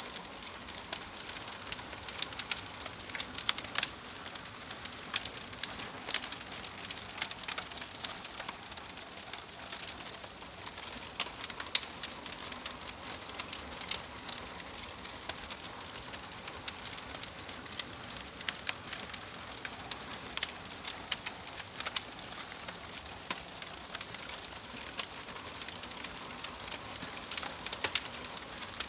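Fire crackling: a steady hiss with frequent irregular sharp pops and snaps.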